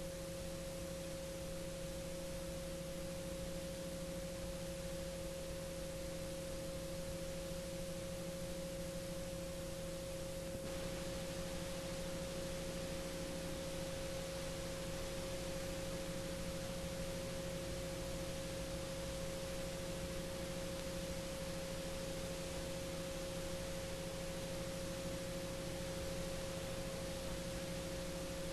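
Garrett TPE331 turboprop engines running steadily at high power during a torque run-up, heard as a constant hum of several steady tones over a hiss. The hiss rises slightly about ten seconds in.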